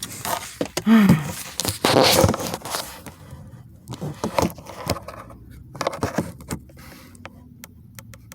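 Handling noise from a phone being set up and propped in place: scraping and rustling with scattered clicks and knocks, loudest in the first three seconds and dying away to a few clicks. A brief voiced sound comes about a second in.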